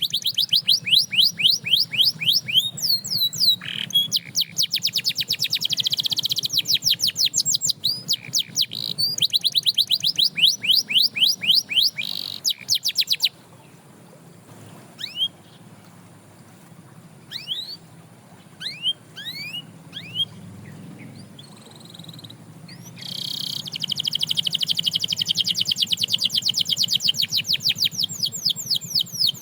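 Canary singing: long, fast trills of rapidly repeated sweeping notes. About halfway through the song breaks off to a few scattered single chirps, then a new trill starts in the last third.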